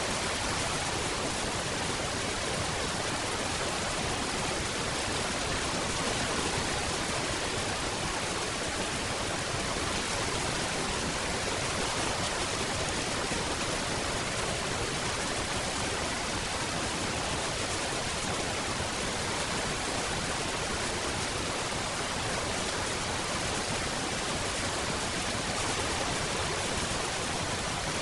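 Steady rain falling, an even hiss that keeps up without pauses or changes.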